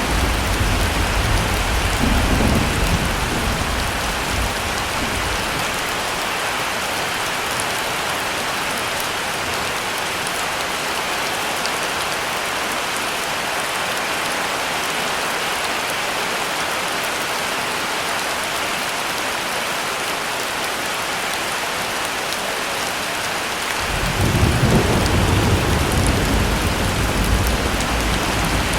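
Heavy rain falling steadily, with low thunder rumbling that fades away over the first few seconds; near the end a new roll of thunder starts suddenly and keeps rumbling.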